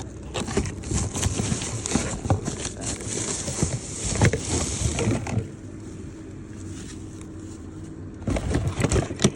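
Rustling, crinkling and clattering of packaging and plastic parts as a small portable vacuum cleaner is unboxed and handled, in a busy stretch of several seconds, a pause, then more handling near the end, over a faint steady hum.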